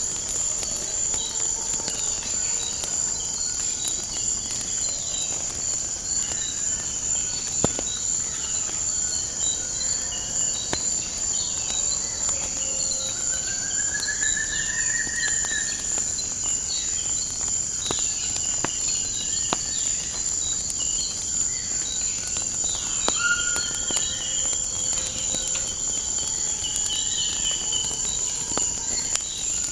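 A steady high-pitched insect chorus, like crickets, with scattered short bird calls over it and occasional sharp pops of a crackling wood fire.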